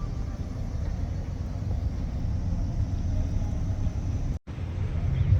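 Steady low outdoor rumble, the kind of noise that car traffic makes, broken by a sudden brief dropout to silence about four and a half seconds in.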